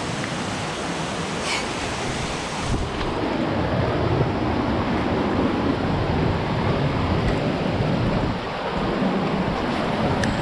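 Steady rushing of a waterfall and its stream, a dense even roar that grows a little louder about three seconds in.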